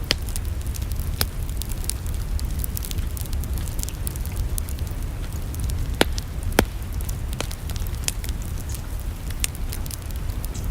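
Wood fire burning in a fireplace, crackling: many small snaps over a steady low rumble, with two louder pops about six seconds in, half a second apart.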